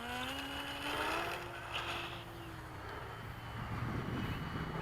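Electric RC airplane's motor and propeller whining as it throttles up for takeoff, the pitch rising steadily. The whine levels off and fades out about three seconds in.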